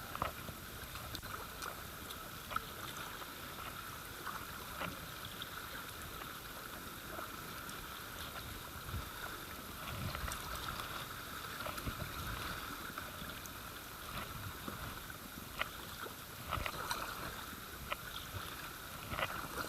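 River water flowing and babbling around a kayak, with scattered short splashes and knocks from paddling.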